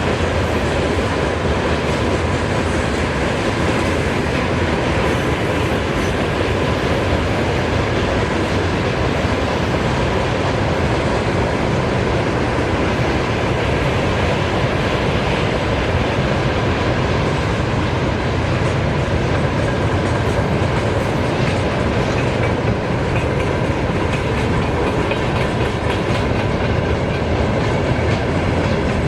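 Freight train wagons rolling past, a steady loud rumble of wheels on rails.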